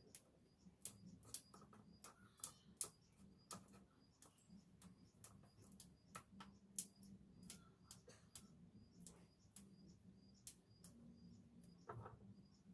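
Faint, irregular light clicks and taps, a few of them sharper, over a low steady hum.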